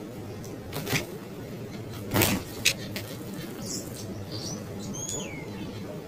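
A few short, high bird chirps in the second half, the last a quick downward-sliding call, over a steady low background rumble. Two brief rustling knocks in the first half are the loudest sounds.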